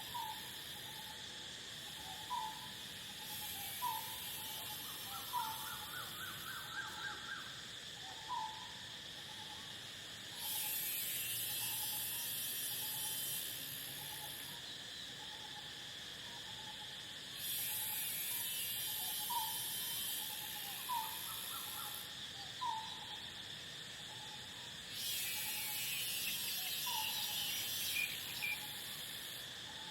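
A bird repeats a short call about every one and a half seconds, twice breaking into a quick rising run of notes, over a steady high chorus of crickets. Three times, a loud high buzzing of insects swells in for about three seconds and then stops.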